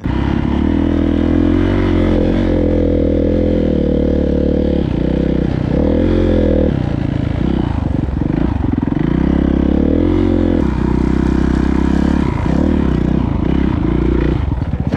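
Dirt bike engine running hard, its pitch rising and falling repeatedly as the throttle is worked.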